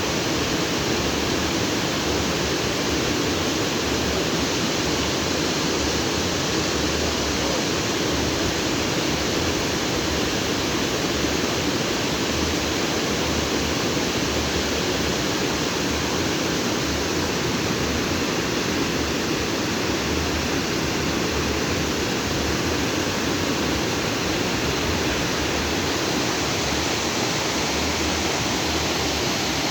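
Stream water rushing and splashing over rocks in a continuous, steady rush.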